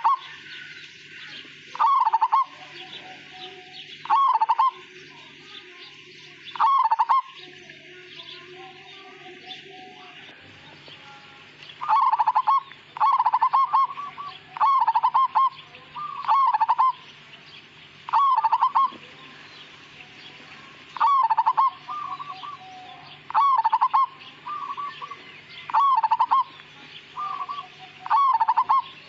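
Zebra dove (perkutut) cooing: short, trilled coo phrases repeated every one to two seconds, with a pause of about five seconds about a third of the way through.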